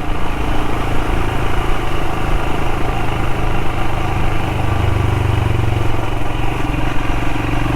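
Royal Enfield Himalayan's single-cylinder engine running steadily while being ridden, its note swelling a little about five seconds in.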